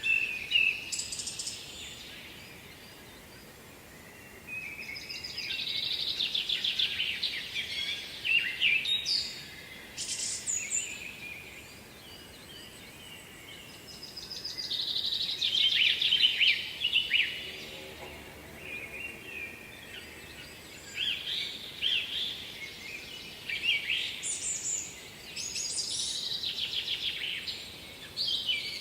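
Songbirds singing, repeated phrases of rapid notes every few seconds, over a faint steady background hiss.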